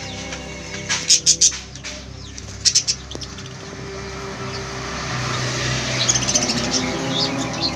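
Lovebirds giving short, shrill chirps in quick clusters about a second in and again near three seconds, over a steady rustling background that grows louder in the second half.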